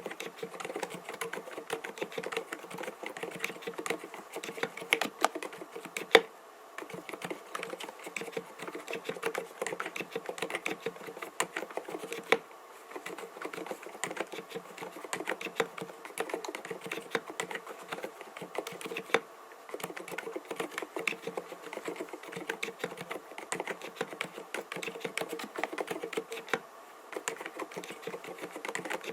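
Continuous fast typing on an mStone Groove T 87A mechanical keyboard with silent (dampened) Milky linear switches, 45 g: a steady stream of soft key clacks, with a louder single stroke about six seconds in and brief pauses every several seconds.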